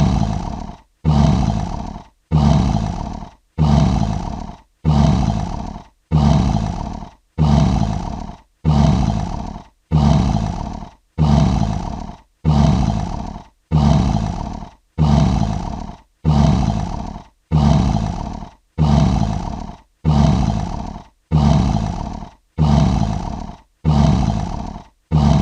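Lion roar sound effect: a short, deep roar repeated evenly a little more often than once a second, each one starting sharply and fading, identical every time like a looped sample.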